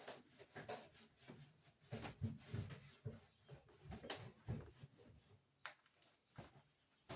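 Faint, irregular rubbing and light knocks of kitchen surfaces being wiped and scrubbed during cleaning, with a few sharper clicks.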